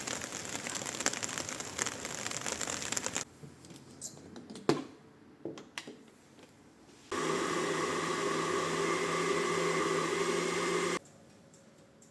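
A steady hiss with light ticks for about three seconds, then a few soft clicks, then a small electric motor humming steadily for about four seconds before cutting off suddenly.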